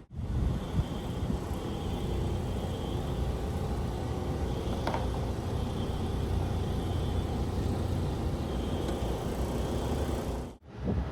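A steady low rumble with a faint hum under it, broken off sharply for a moment near the end.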